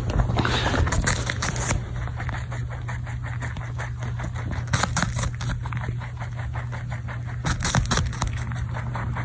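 A rabbit chewing its food: rapid, steady crunching, with louder rustling bursts about a second in, near the middle and near the end, over a steady low hum.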